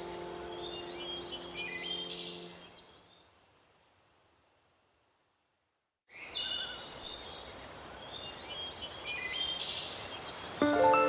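Birds chirping and singing over a soft held music chord; both fade out about three seconds in, leaving a second or two of silence. Then the birdsong starts again abruptly, and a new held chord enters near the end.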